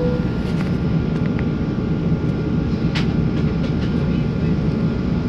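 Boeing 737-800's CFM56 jet engines running with a steady, loud roar, with a thin steady whine above it and a few faint clicks.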